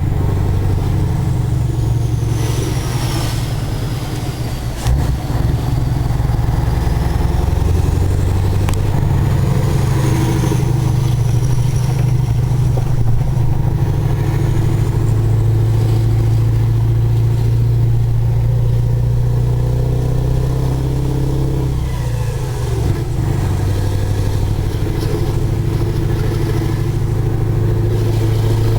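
Scania 143 450's V8 diesel engine running with a steady deep drone. The level dips briefly twice, about four seconds in and again about 22 seconds in.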